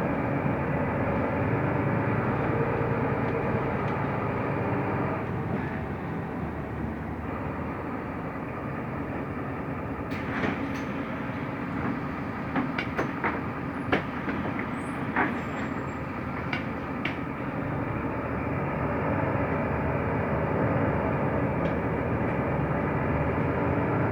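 Mercedes-Benz O345 Conecto LF city bus under way, heard from inside the passenger cabin: steady engine and road noise with a low engine hum. A string of short sharp clicks and rattles comes in the middle.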